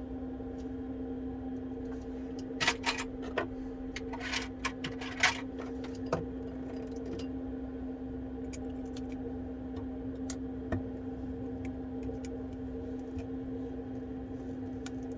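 Small sharp clicks and light metallic taps of precision tools and tiny parts during iPhone 12 disassembly, bunched together a few seconds in and then sparse, over a steady low hum.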